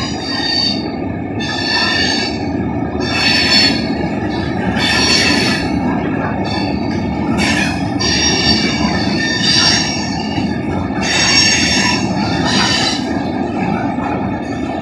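Loaded rock-train hopper cars rolling past with a steady rumble, and high-pitched metal squeals from the wheels coming and going every second or two.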